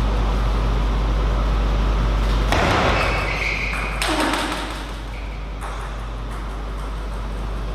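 Steady low hum of a table tennis hall's background, broken about halfway through by a couple of seconds of short clattering knocks with a brief ring, then the steady hum again.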